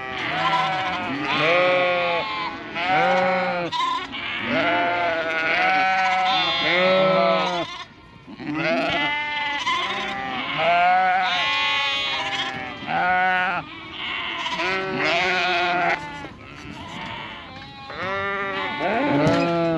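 Flock of sheep bleating continuously, many overlapping calls at different pitches, with a short lull about eight seconds in. The ewes and lambs are calling to each other after being separated at weaning.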